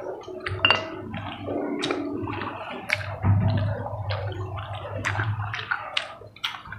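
Close-up wet chewing and lip-smacking of people eating chicken with their hands, with many short clicks from mouths and fingers throughout.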